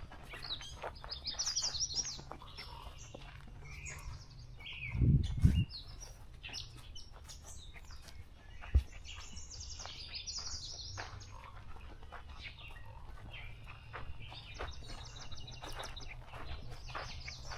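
Several songbirds singing and chirping at once, short high trills and calls overlapping. A loud cluster of low thumps comes about five seconds in, with a single sharp knock near nine seconds.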